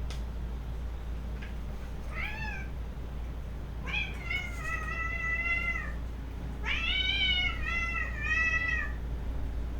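Domestic cat meowing: a short meow about two seconds in, a long drawn-out meow, then a broken run of meows near the end, over a low steady hum.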